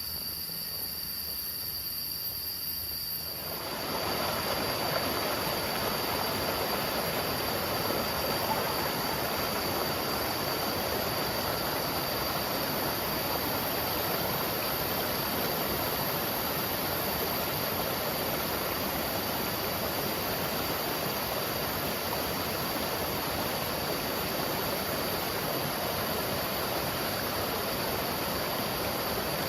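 Insects chirring with a steady high tone, then about four seconds in a waterfall's steady rush of falling water starts and runs on, with the insect tone still audible over it.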